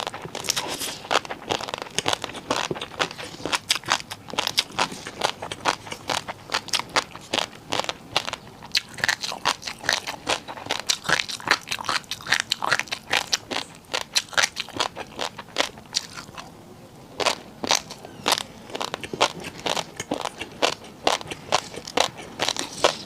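Close-up eating sounds: rapid, crisp crunching as someone bites and chews crunchy noodles, with a brief pause about two-thirds of the way through before the crunching resumes.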